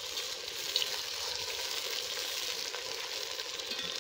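Sliced onions and garlic cloves deep-frying in hot oil in a metal pot, a steady sizzle, with a couple of light clicks from the wire skimmer that stirs them.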